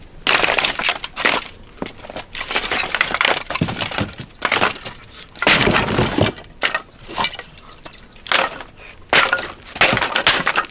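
Dry wooden sticks being snapped by hand or foot to break up kindling, a series of sharp, irregular cracks and splintering.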